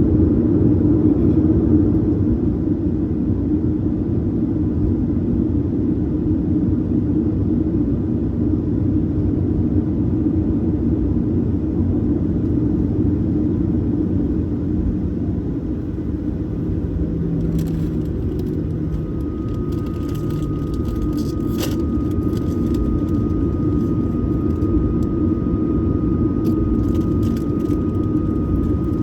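Steady jet engine and airflow drone of a Boeing 737-900ER, heard inside the cabin. About two-thirds of the way through, light clicks and rattles and a faint steady whine join it.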